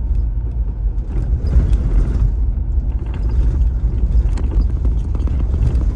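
Car driving along a rural road, heard from inside the cabin: steady low road noise from the tyres and engine.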